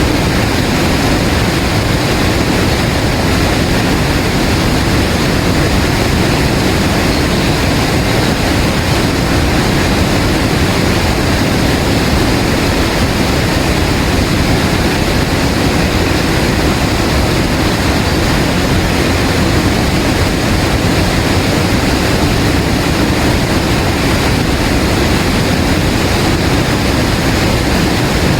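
Waterfall roaring steadily, an even, unbroken rush of falling water.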